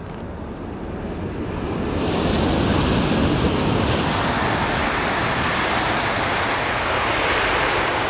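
Steady rushing noise of a high-speed train, building over the first two seconds and then holding loud.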